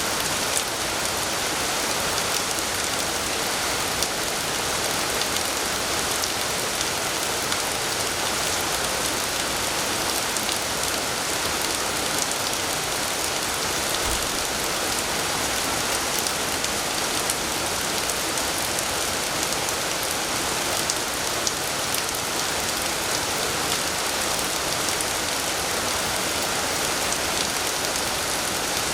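Heavy rain falling steadily as an even hiss, with scattered sharp drop ticks.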